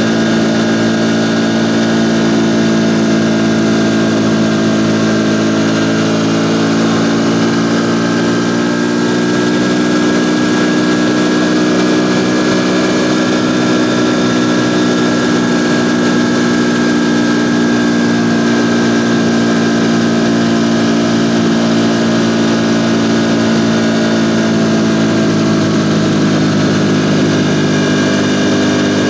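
Ducati Panigale V4's 90-degree V4 engine running at nearly constant revs, its pitch sagging slightly partway through and then recovering.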